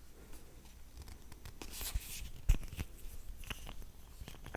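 Soft, close-up clicks and a brief scratchy rustle: a sharp click about halfway through and a few fainter ticks near the end.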